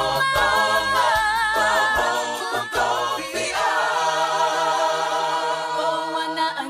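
Vocal music: several voices singing in harmony over a light regular beat, settling into a long held chord about three and a half seconds in.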